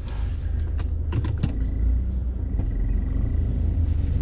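Low, steady rumble of a car idling while stopped in traffic, heard from inside the cabin, with a few faint clicks.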